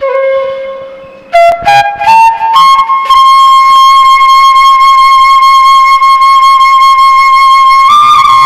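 Background music: a flute-like wind instrument plays a low note, climbs in a few quick notes, then holds one long high note for about five seconds.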